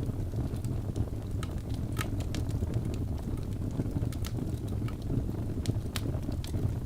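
Birch logs burning in a fireplace: a steady low rumble of flame with irregular sharp crackles and pops, the loudest about two seconds in and again about six seconds in.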